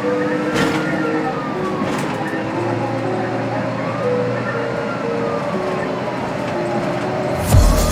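Warning siren wailing, its pitch slowly rising and falling about every four seconds, over a steady hiss. Heavy drum-like thumps come in near the end.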